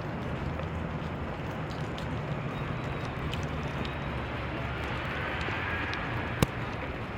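Steady city street noise of road traffic, with one sharp click about six and a half seconds in.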